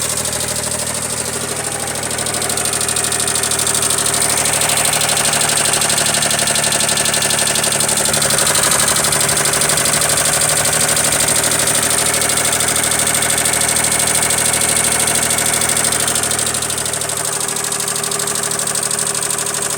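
Ford 3000 tractor engine idling steadily, a little louder through the middle stretch.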